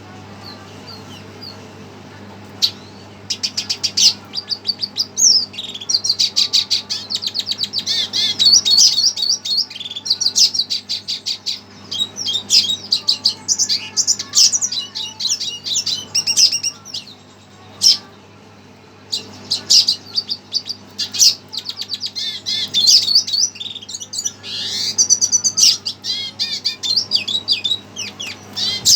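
Red siskin singing in rapid trills, twitters and chirps, worked up by hearing another bird's song, with short breaks between phrases. A faint steady hum sits underneath.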